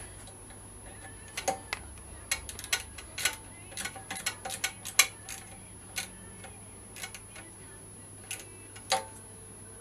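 Irregular sharp metallic clicks and clinks, a dozen or so spread over several seconds, of an Allen key being worked on a bolt of the engine-bar mounting.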